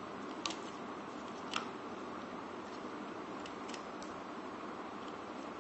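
Plastic parts of a toy mech being handled and snapped into their catches: two sharp clicks about half a second and a second and a half in, then a few fainter ticks, over a steady hiss.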